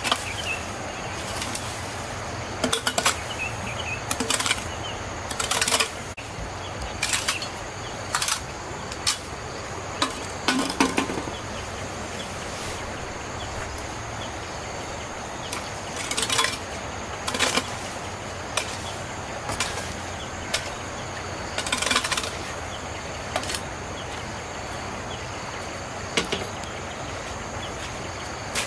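Irregular clatter and sharp knocks of household objects being handled and set down while clearing up, over a steady high-pitched insect chirring.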